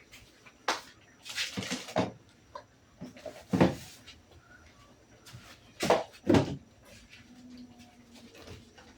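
Irregular household handling noises: several clatters, knocks and scrapes of objects being moved and set down, the loudest bunched around a few seconds in and just past the middle.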